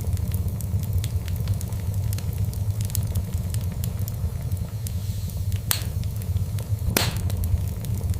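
Wood fire burning in a fireplace with a steady low rumble and frequent small crackles. Two louder pops come in the second half.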